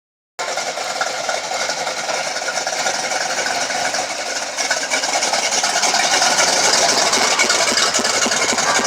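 A vehicle engine running loudly and steadily, starting abruptly about half a second in and growing a little louder partway through.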